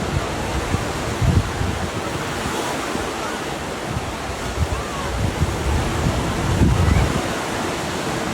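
Steady rushing noise with gusts of wind buffeting the microphone, strongest about a second in and again near the end.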